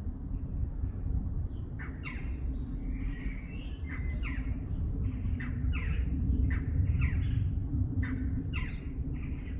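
A bird calling over and over: short, harsh calls that drop in pitch, about two a second, starting about two seconds in. Beneath them run a steady low hum and a low rumble.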